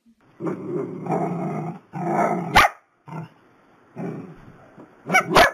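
Small dogs growling and grumbling in several drawn-out bursts of about a second each, with two sharp barks, one about two and a half seconds in and one near the end.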